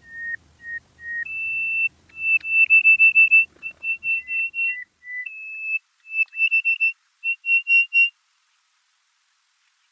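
A run of clear, high whistled notes at a few pitches, many repeated in quick bursts like a short melody, stopping abruptly about eight seconds in.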